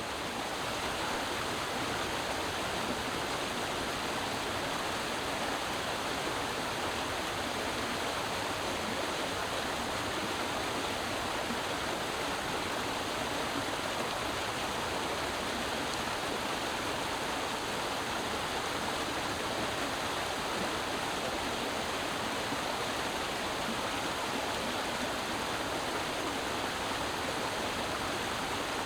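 Creek water flowing and splashing over rocks in a steady, even rush.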